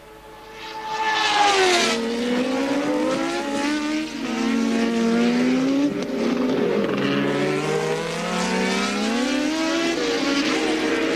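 1983 Formula One cars racing: several engines at high revs at once, one car approaching and passing with a falling pitch about a second in, then engines rising and falling through gear changes.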